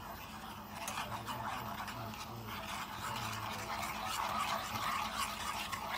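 Kitchen utensil scraping and rubbing against cookware in many small irregular strokes, growing louder about four seconds in, over a faint steady low hum.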